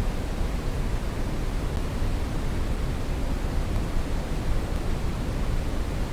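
Brown noise: a steady, even rushing hiss weighted toward the bass and low mids, with no events or changes.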